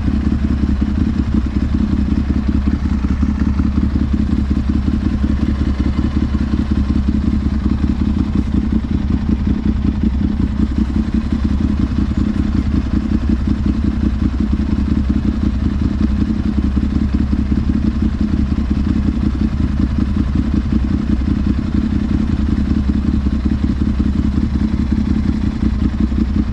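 Ducati Monster 796's air-cooled L-twin engine idling steadily through twin Akrapovic silencers, with an even, low exhaust pulse and no revving.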